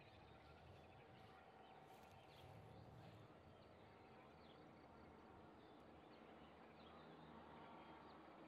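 Near silence: faint birds chirping in the background.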